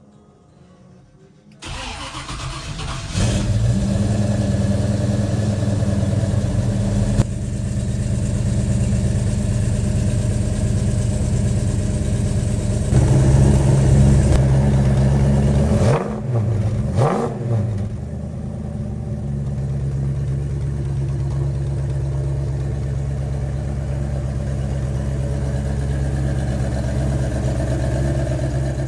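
Ford Boss 302 crate V8 in a 1966 Mustang, breathing through MagnaFlow mufflers, cranks briefly and fires up about two seconds in, then settles into a steady idle. It runs louder for a few seconds in the middle, is blipped twice quickly, and drops back to a steady idle.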